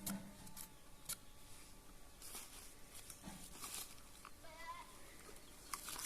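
Goats bleating faintly, one short wavering bleat about four and a half seconds in, amid scattered light clicks and knocks.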